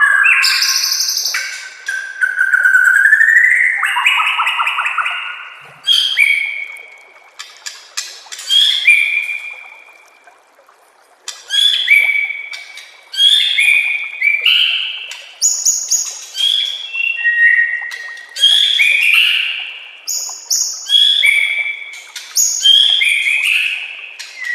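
White-rumped shama (murai batu) singing loud, varied whistled phrases, some with fast rattling trills, with a brief pause about halfway through.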